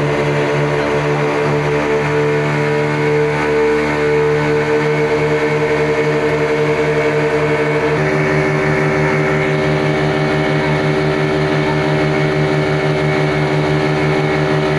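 A boat's engines running steadily at cruising speed over the hiss of water and wind. The engine tone shifts slightly about eight seconds in.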